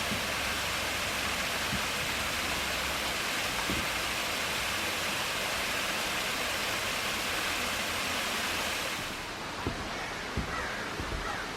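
Steady rushing water of a waterfall, an even hiss that stops abruptly about nine seconds in, leaving quieter outdoor background with a few light knocks.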